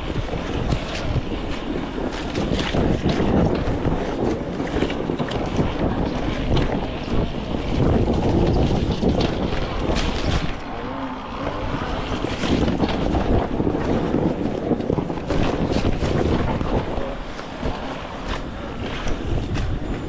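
Off-road enduro motorcycle engine running under wind buffeting on the camera microphone, with occasional sharp knocks.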